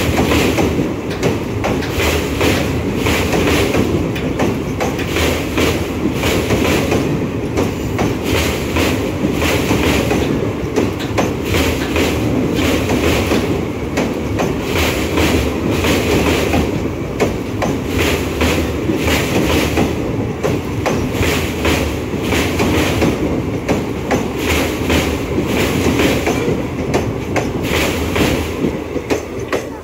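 Passenger coaches of an express train rolling past at close range on a river bridge: a loud, steady rumble with the wheels clattering in a repeated clickety-clack.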